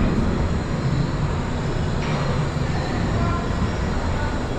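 Steady running rumble of a Wuppertal Schwebebahn suspension railway train, with faint high tones over it.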